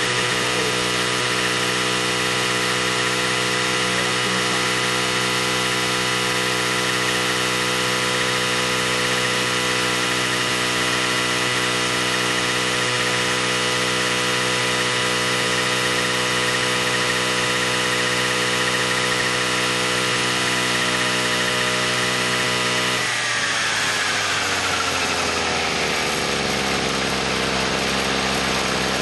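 A small motor running at a steady high speed, then slowing over a few seconds, about three-quarters of the way through, to a lower steady speed.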